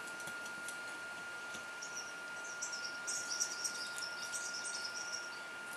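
A small bird twittering in a run of quick high chirps, from about two seconds in until near the end. Under it runs a faint steady high whine, with a few faint clicks in the first second.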